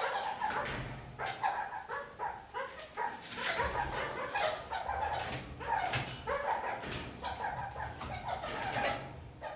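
Red-crowned kakariki (red-crowned parakeets) chattering and calling, a continuous stream of short, quick calls jumping up and down in pitch.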